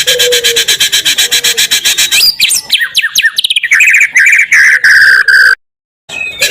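Recorded white-rumped shama (murai batu) song, used as pancingan to provoke a bird. It starts with a fast run of high repeated chirps. About two seconds in it turns to quick downward-sliding whistles and warbling trills. It cuts off abruptly, then after a brief total silence the chirping starts again, as in an edited loop.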